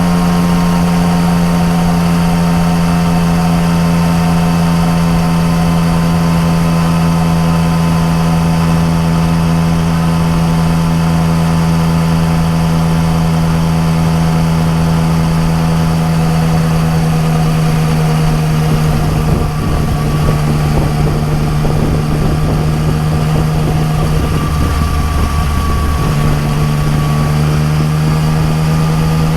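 Yamaha MT-09 Tracer's three-cylinder engine through an Akrapovič exhaust, running at a steady cruise with wind rushing past. Its pitch eases down slightly about two-thirds of the way through, then holds.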